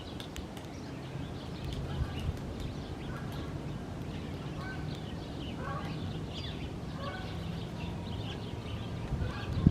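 A flock of birds calling, many short calls overlapping one another, over a steady low drone.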